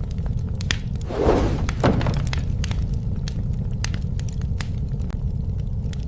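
Wood fire burning, with frequent sharp crackles and pops over a steady low roar. About a second in there is a brief louder crash, with a second thud just after.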